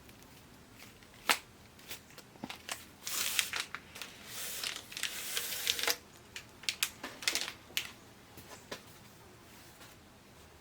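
Crinkling and tearing of tape and plastic packaging as a taped plastic tube holding replacement LED backlight strips is opened. Scattered sharp clicks and knocks come from the tube being handled. The crinkling is loudest from about three to six seconds in.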